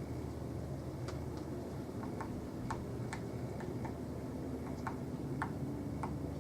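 Woodpecker tapping on wood: about a dozen sharp, irregularly spaced pecks over a steady low rumble.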